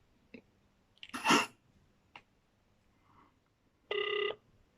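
A short, sharp sneeze-like burst of breath about a second in, then a brief electronic beep on the phone line near the end, with a few faint clicks between.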